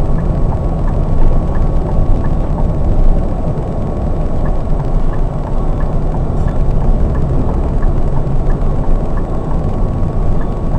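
Scania K420 double-decker coach under way: a steady low rumble of engine and road noise with a constant whine. A faint, regular tick comes about twice a second.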